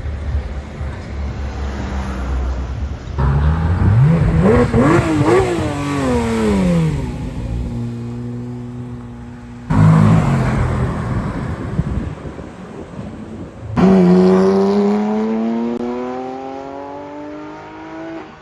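Porsche sports car engines in quick succession: a low idle rumble, then several sharp revs whose pitch climbs and drops before settling into a steady idle, then a loud burst that fades away, and finally a long pull under acceleration with the engine pitch rising steadily.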